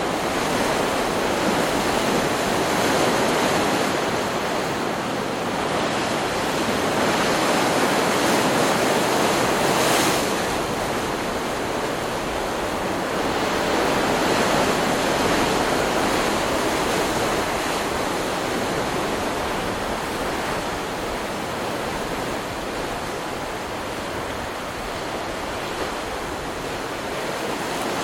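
Ocean surf from a stock beach recording: a continuous wash of breaking waves that swells and eases every few seconds, softer in the later part.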